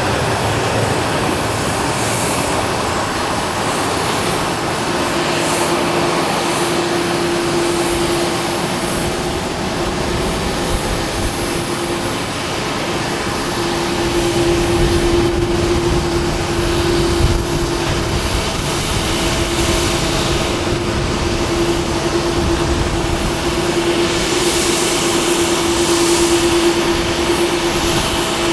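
Jet engines of a Qantas Airbus A330-300 (Rolls-Royce Trent 700s) running at low taxi power, a steady rushing sound with a held droning tone that neither rises nor falls.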